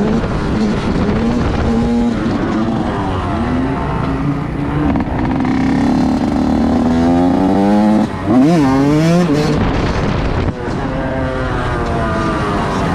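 Motorcycle engines revving, their pitch rising and falling over and over, with one sharp rev about eight seconds in.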